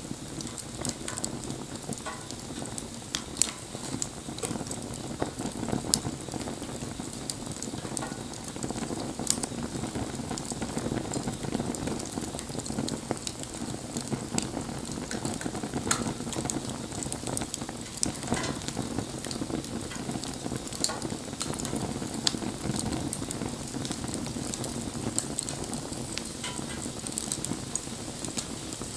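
Wood bonfire burning: a steady rush of flame with frequent sharp crackles and pops from the burning wood.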